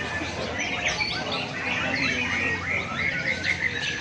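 Many caged lovebirds singing at once in a bird-singing contest, a dense mass of overlapping fast chirps and trills.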